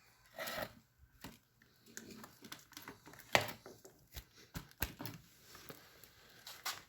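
Scattered light clicks and knocks of parts and tools being handled, irregular, the loudest about three seconds in.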